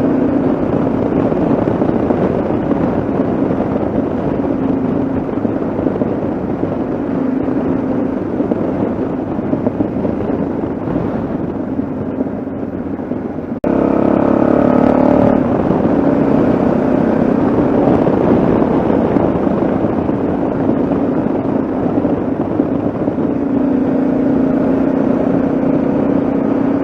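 Yamaha XT660Z Ténéré's single-cylinder four-stroke engine running steadily as the bike rides along, with wind noise. About halfway through the sound breaks off abruptly and comes back a little louder.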